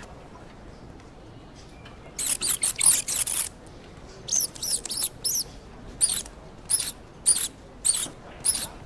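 A run of very high-pitched squeaks: a quick cluster about two seconds in, then single squeaks at an even pace, a little under two a second, through the rest.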